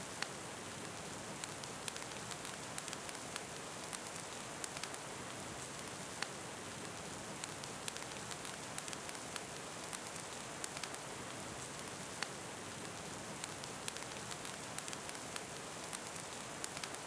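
Steady rain hiss with a wood fire crackling, its sharp pops and snaps coming irregularly, several a second.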